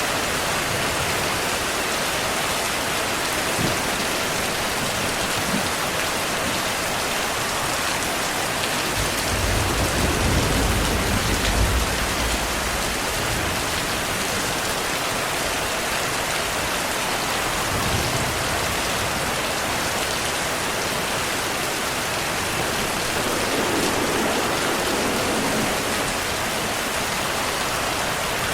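Steady heavy rainfall, with a low rumble of thunder swelling for a few seconds about a third of the way in and fainter low rumbles later.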